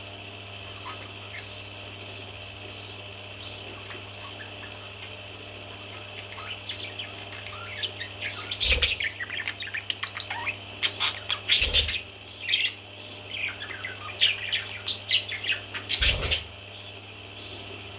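Baby parrots chirping in quick, busy calls that start to crowd in about six seconds in and keep going, with three loud knocks among them. A steady low hum runs underneath.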